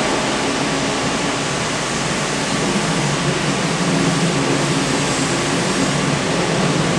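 Sydney Trains K-set double-deck electric multiple unit running on the line, heard from inside the door vestibule: a steady, loud rush of wheel and running noise with a faint low hum underneath.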